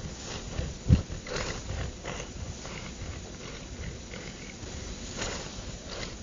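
A cat's claws scratching, a string of short rasping strokes, with one loud low thump about a second in.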